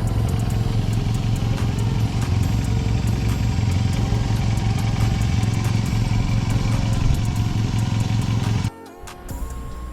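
Yamaha FZR250's inline-four engine running at a steady speed while riding, with background music over it. The engine sound cuts off abruptly near the end, leaving quieter music.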